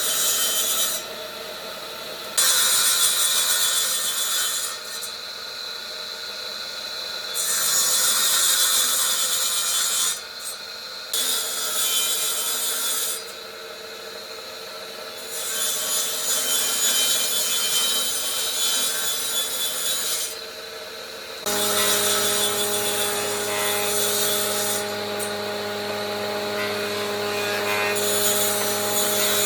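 Power tools working wood: a series of short stretches of abrasive cutting or sanding noise that start and stop abruptly. About two-thirds of the way in, a motor starts running with a steady hum under the cutting noise.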